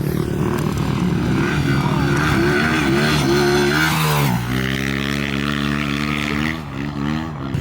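Dirt bike engine revving up, its pitch climbing in steps, then dropping sharply a little past halfway and running steadier at a lower pitch.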